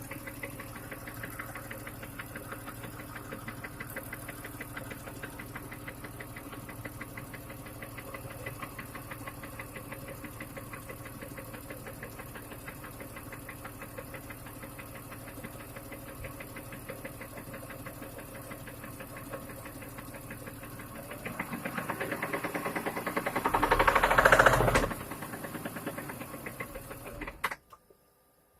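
BMW M54B30 3.0-litre straight-six idling hot with a fast, even knocking, the knock the owner hears when the engine is warm. The engine is revved up briefly near the end, then the sound stops suddenly.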